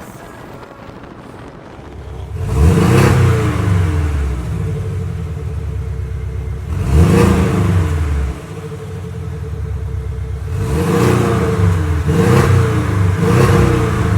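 Porsche 718 Boxster engine through a Fi valved catback exhaust with catless downpipe, idling and then revved five times. Each rev rises sharply and falls back: one about two seconds in, one around the middle, and three in quick succession near the end.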